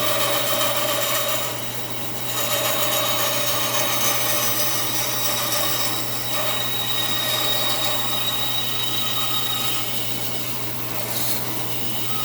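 Central Machinery 14-inch bandsaw running with a steady motor hum while its blade cuts through a hardwood blank with a continuous rasping hiss, which eases off briefly about two seconds in and again near the end.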